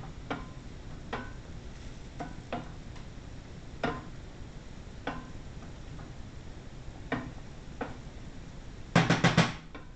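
White wine sauce cooking in a pan with a faint steady sizzle and scattered light pops about once a second, then a quick run of loud knocks near the end.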